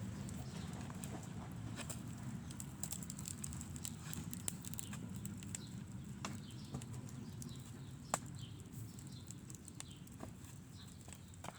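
Footsteps of someone walking outdoors, with a steady low rustle and scattered sharp clicks, one louder click about eight seconds in.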